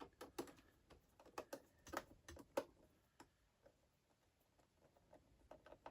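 Faint, irregular small clicks and taps from a Phillips screwdriver driving screws into an iMac's case. They fall silent for about two seconds in the middle, and a few more come near the end.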